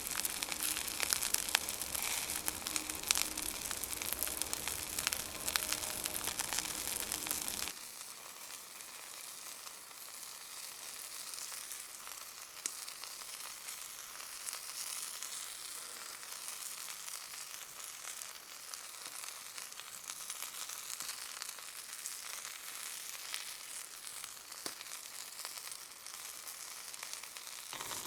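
Food frying over a campfire: a sizzle with many small crackles and pops. About eight seconds in it drops suddenly to a quieter, softer sizzle.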